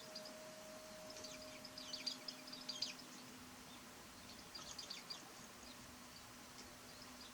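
Japanese white-eyes giving thin, high chirping calls in two quick clusters, about a second in and again near five seconds, over a faint steady hum.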